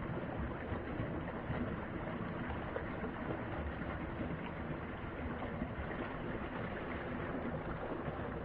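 Mountain stream water flowing, a steady, even rush with no breaks.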